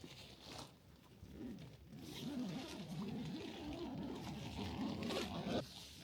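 A dog whining and grumbling in low, wavering tones for about four seconds, stopping suddenly near the end, with some rustling.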